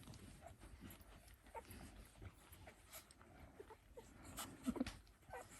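A few short, faint squeaks from 8-day-old Dalmatian puppies, the loudest near the end, with soft clicks between them.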